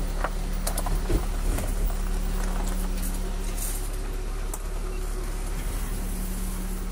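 A car's engine running with a steady low hum as the car rolls slowly over a dirt lane, with a few clicks and knocks in the first two seconds.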